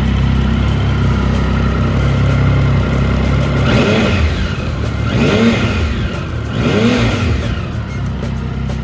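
Triumph Tiger 1050's three-cylinder engine idling through aftermarket Quill exhausts, then blipped three times, the revs rising and falling about a second and a half apart.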